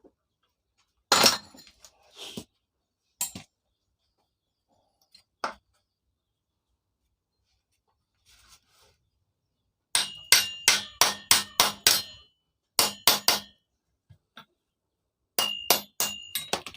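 Hammer blows on steel, ringing after each hit: a few separate strikes, then quick runs of about four blows a second near the middle and the end. This is typical of knocking a rusted, seized part loose on a chainsaw.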